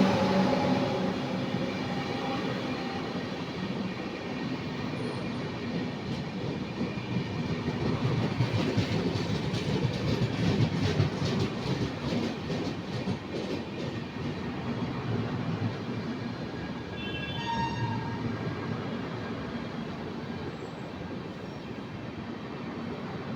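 Indian Railways train running past on the rails: a steady rumble with wheels clicking over the rail joints, strongest through the middle and fading toward the end. A brief high-pitched tone is heard near the end.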